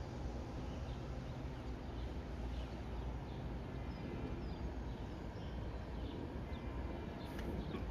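Small birds chirping, short faint calls repeated every half second or so, over a steady background of hiss and low hum.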